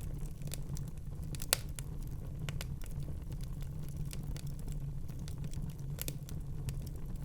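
Wood fire burning in a fireplace: a steady low rumble of flames with scattered crackles and pops, one sharp loud pop about one and a half seconds in and another about six seconds in.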